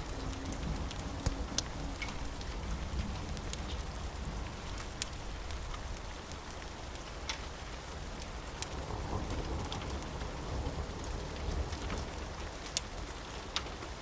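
Steady rain mixed with a crackling fireplace: a continuous hiss of rain with a low rumble underneath, and sharp pops and crackles scattered irregularly through it.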